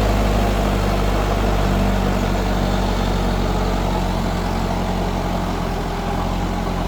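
Mahindra 4WD tractor's direct-injection diesel engine running steadily, its low hum easing slightly about four seconds in.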